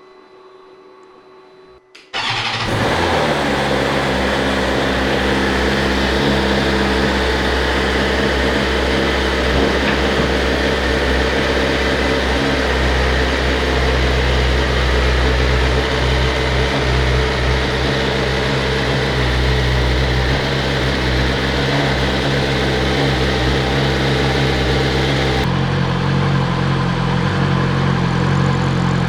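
A new 2020 BMW S1000XR's inline-four engine being started for the first time: it catches about two seconds in and then idles steadily. About 25 seconds in its sound changes abruptly to a lower note.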